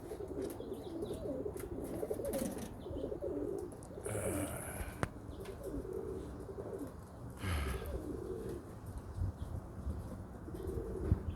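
Pigeons cooing over and over, with wind rumbling on the microphone and a couple of brief noisy bursts.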